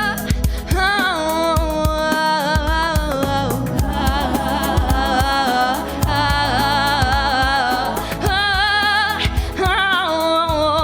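A girl singing long held notes with vibrato over a pop backing track with a steady beat.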